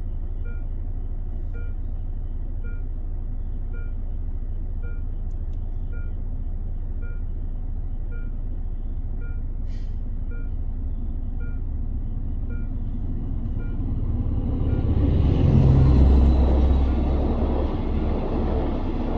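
Level-crossing warning signal beeping about once a second over the steady low rumble of a car idling with the cab closed. From about 14 s in a passenger train approaches and passes across the crossing, loudest about 16 s in as the locomotive goes by, then the carriages rumble past.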